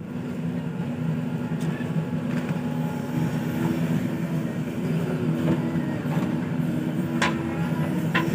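Heavy diesel machinery engine running steadily under load, with the pitch shifting slightly. Two short, sharp knocks come near the end.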